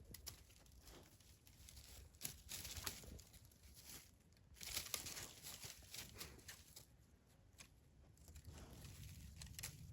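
Faint rustling with scattered small clicks, loudest about two to three seconds in and again around five seconds in.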